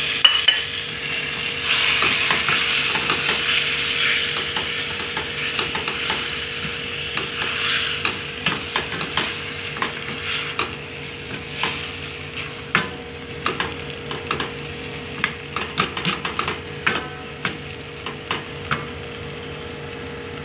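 Diced raw chicken sizzling in a hot steel pot of sautéed onion, garlic and ginger while being stirred with a wooden spatula: a frying hiss, joined from about halfway by many sharp clacks of the spatula against the pot. A steady hum runs underneath.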